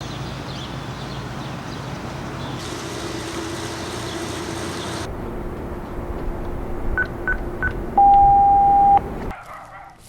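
Electronic beeping over a steady background hiss and hum: three short high beeps about 7 seconds in, then one loud, steady, lower beep lasting about a second.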